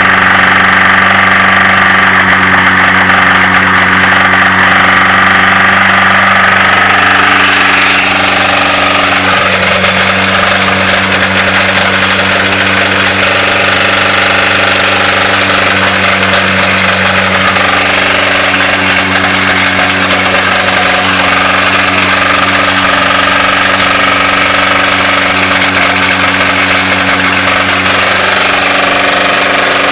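Chevy S10's 2.2-litre four-cylinder engine held at steady high revs with a knock: a spun or failing connecting-rod bearing, the rod knock of an engine being run hard to blow it up. About eight seconds in, a loud hiss joins the engine.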